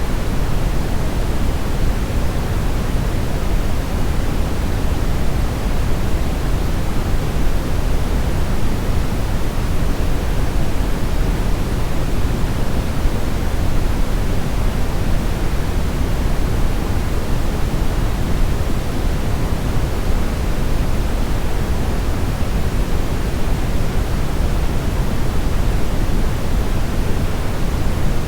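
Steady brown noise: an even, deep rushing hiss weighted toward the bass, unchanging throughout.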